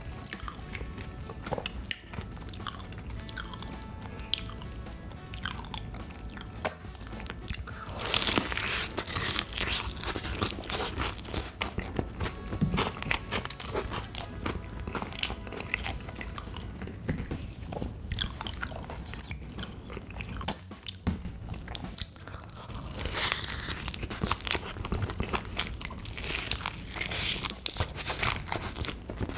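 Close-miked eating sounds: repeated crunchy bites and chewing of crunchy food. Faint background music plays under the first few seconds.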